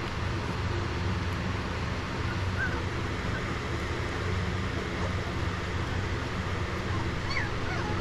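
Steady low mechanical hum, with a few faint, short high squeaks from Cane Corso puppies, one a few seconds in and more near the end.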